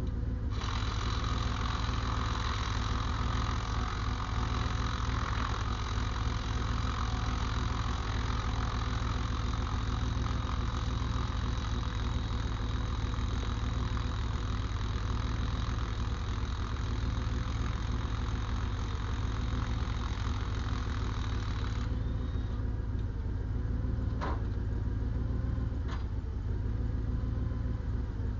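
Diesel engine idling steadily. A higher hiss runs over it from about half a second in and cuts off abruptly about 22 seconds in, and two sharp clicks follow near the end.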